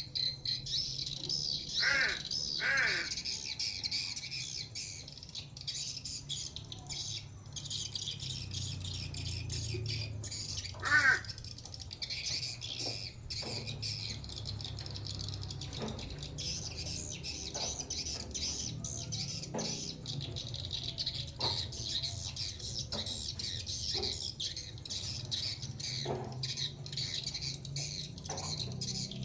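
Crow giving a few short harsh calls: two close together about two seconds in and a louder one about eleven seconds in. A steady high-pitched chirring and a few faint clicks run under them.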